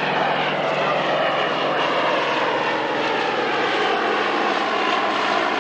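Fairey Swordfish biplane's Bristol Pegasus nine-cylinder radial engine running steadily in a flypast, its pitch sinking slowly.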